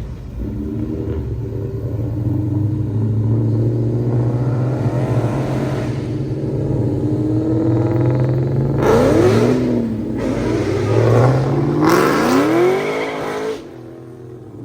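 Muscle car engine running at low revs with a deep rumble, then revved up twice with rising pitch, about nine and twelve seconds in. The sound drops off sharply near the end.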